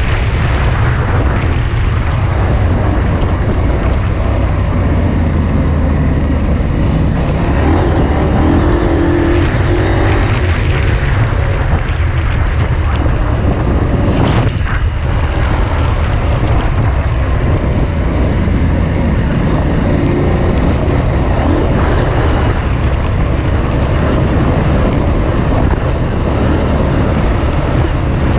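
Adventure motorcycle engine running as the bike is ridden, with heavy wind buffeting on the microphone.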